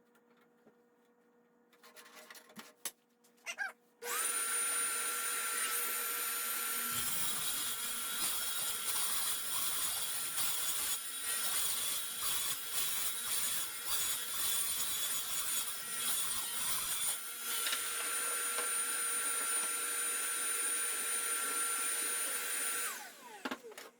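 An electric power tool's motor starts about four seconds in and runs at a steady high whine. Through the middle it cuts into wood, adding a rougher grinding noise, then it is switched off near the end and winds down.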